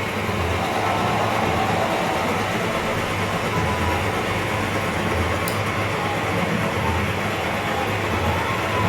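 Experimental noise music played live: a dense, steady wall of noise with a low throb that swells roughly every one and a half seconds.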